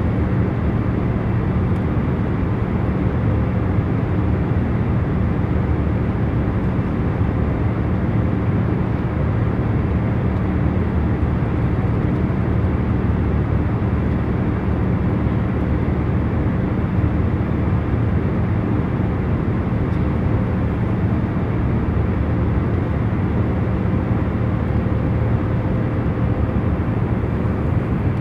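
Airliner cabin noise in cruising flight: a steady low rushing of engine and airflow noise with a faint, even hum underneath, unchanging throughout.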